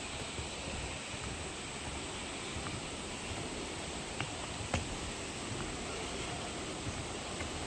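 Waterfall and stream water rushing in a steady, even wash, with a couple of small sharp clicks about four and five seconds in.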